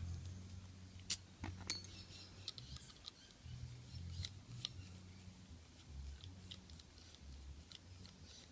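Light metal clicks and scrapes of a screwdriver working the screws on a padlock body, with a sharper click about a second in, over a low hum.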